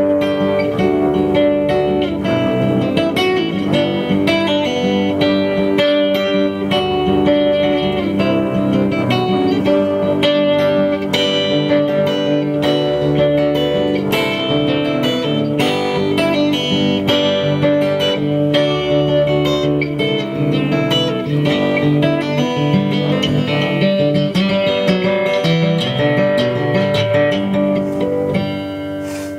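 Live instrumental Americana band music led by picked guitar, with long held notes sounding underneath the plucking.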